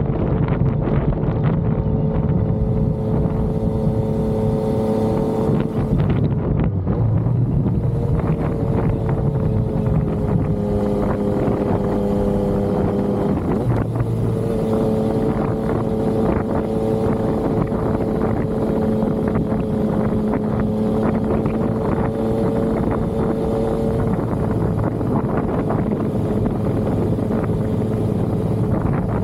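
Yamaha XSR900 motorcycle's inline three-cylinder engine running under way at a fairly steady note, its pitch shifting a few times and dipping slightly around the middle, with wind noise on the microphone.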